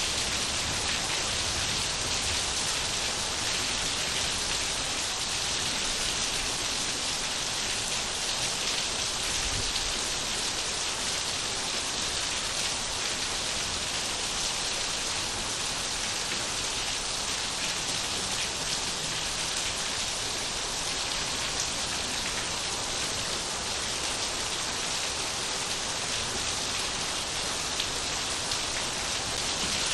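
Steady rain falling on surfaces, an even hiss of drops with no let-up.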